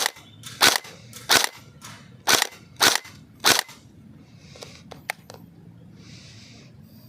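Airsoft rifle fired in single shots, about six sharp reports over three and a half seconds, then the firing stops; a few faint clicks and brief rustles follow.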